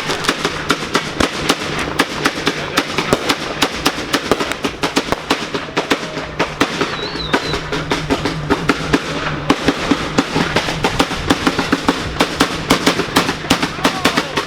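A string of firecrackers going off: a rapid, irregular run of sharp cracks and pops, several a second.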